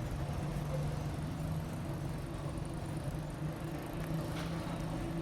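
A steady, low engine hum over road traffic noise.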